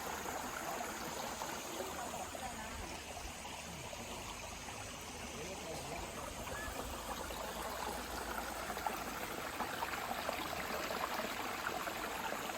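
Shallow mountain stream running over rocks, a steady babbling rush of water.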